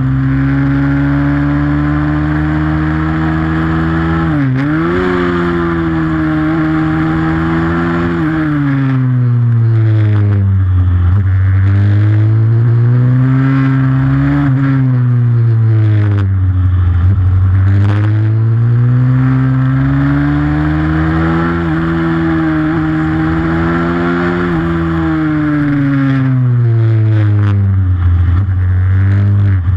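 Pit bike's single-cylinder four-stroke engine running hard under racing load, its revs climbing and dropping again and again in long sweeps of a few seconds each.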